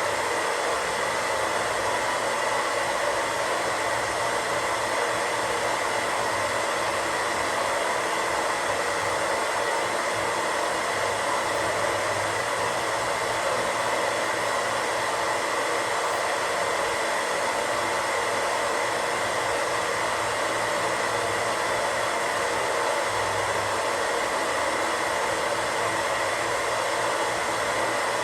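Steady radio static: an even, unchanging hiss with a few faint steady tones running through it.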